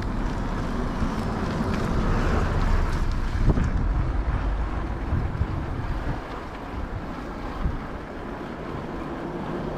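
Wind buffeting the action camera's microphone while riding a bike, a steady low rumble with a noisy hiss, easing a little in the second half.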